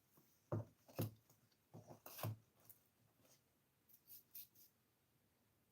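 Quiet handling noises: a few brief rustles and scrapes, bunched in the first two and a half seconds, then two more about four seconds in.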